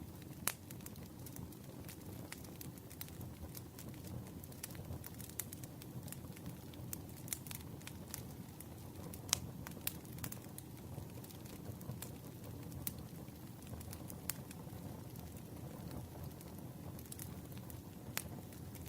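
Campfire burning: a steady low rush with irregular sharp crackles and pops from the wood.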